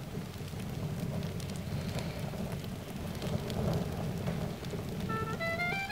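Wood fire in an outdoor fire pit burning with a low rumble and scattered small crackles. Music begins near the end.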